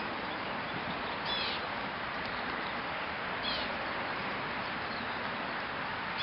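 A small bird giving two short, quick falling chirps about two seconds apart, over a steady background hiss.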